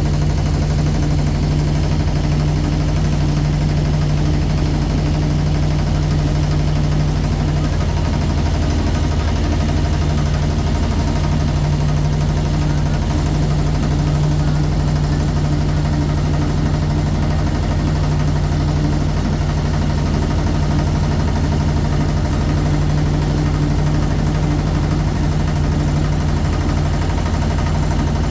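Motorboat engine running steadily at an even pitch, a constant low drone.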